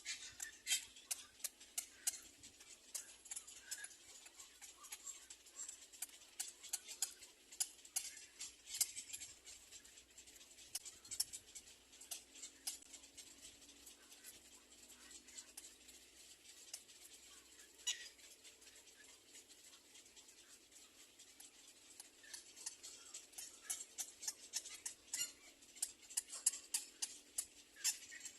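Birds stirring in a nest: faint, irregular clicking and rustling, busier near the start and again near the end.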